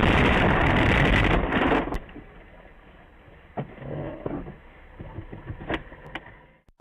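Steady rumble of a car on the road heard through a dashcam, cutting off about two seconds in to a much quieter stretch with a few faint knocks and clicks.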